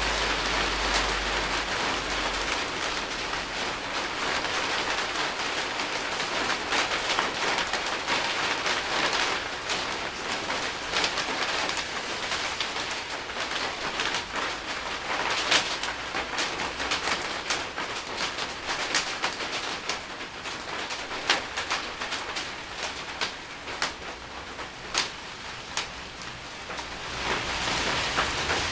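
Steady rain hissing, with sharp ticks of single drops striking something close by scattered throughout. The hiss eases somewhat past the middle and picks up again near the end.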